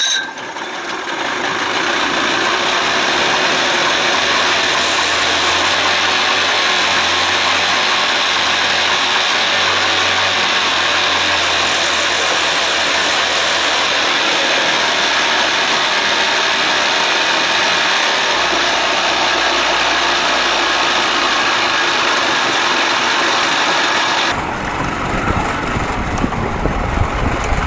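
Evinrude 55 hp two-stroke outboard motor running steadily, with a loud even hiss over the engine note. About 24 seconds in the sound changes and turns deeper.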